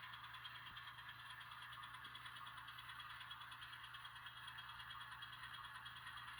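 Faint, steady diesel engine sound from the N scale switcher's ESU LokSound decoder, played through its small onboard speaker, with a fast, even flutter.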